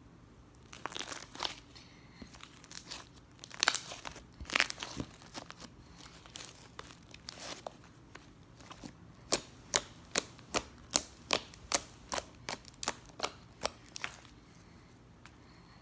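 Slime being squeezed and poked by hand, giving irregular crackles and pops, then a run of sharp clicks about two or three a second in the second half.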